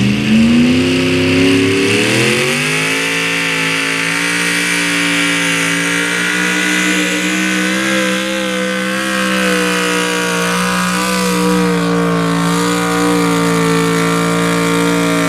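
Pulling truck's engine at full throttle hauling the weight sled: the revs climb over the first two seconds or so, then hold high and steady under load, and drop off at the very end as the throttle is let off.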